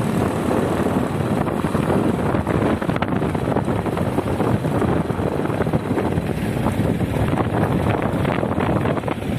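Steady wind rushing over the microphone with the running noise of a moving vehicle.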